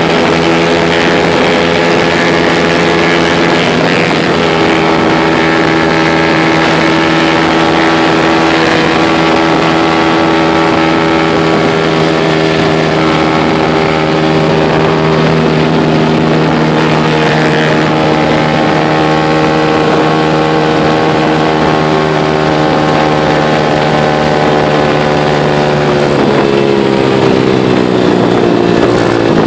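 Motorcycle engine running at a steady speed while riding, heard close up from the bike. The engine note shifts in pitch near the end.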